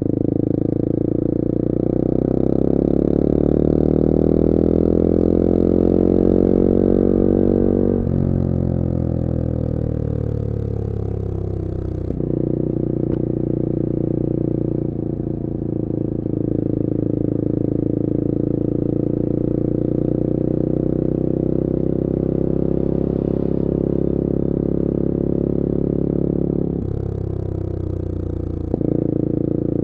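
Bullit Hero 250's CF Moto 250cc four-stroke engine under way. Its pitch climbs for the first eight seconds or so and then falls away. After a sudden step at about twelve seconds it holds steady, and near the end it drops briefly before picking up again.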